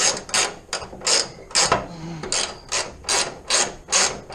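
Ratchet wrench being worked back and forth to turn a bolt: short bursts of clicking, about two to three strokes a second, with a brief pause about two seconds in.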